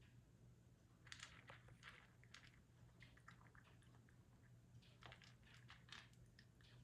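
A cat crunching and chewing food, faint bursts of crunches about a second in and again about five seconds in, over a low steady hum.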